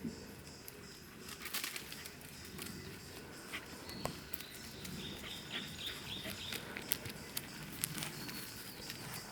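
Footsteps and rustling on a wet woodland path, with a bird giving a quick run of short chirps about halfway through.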